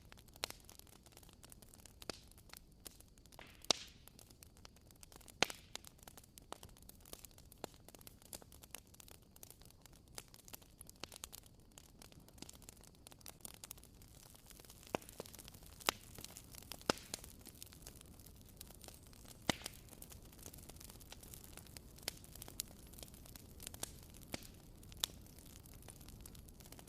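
Wood fire crackling: irregular sharp pops and snaps over a faint low hiss.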